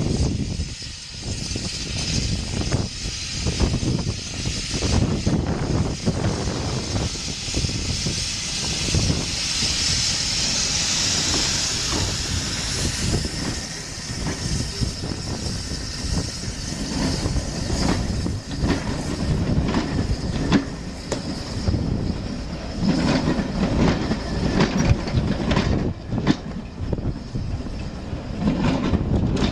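Heritage railway train running along the line, with a steady rumble and many short knocks and clatters from the wheels and carriages. A hiss rises for a few seconds near the middle.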